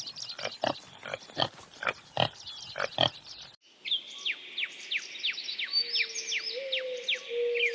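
Animal calls from two clips. First comes a run of about a dozen short, harsh calls. Then, about three and a half seconds in, it cuts to a quick series of chirps, each falling in pitch, over a steady low hum.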